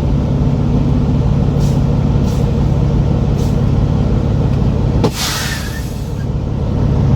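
Semi truck's diesel engine running steadily in a low drone, heard from the cab. About five seconds in, the air brakes let out one sharp hiss lasting about a second, and the engine note drops slightly after it.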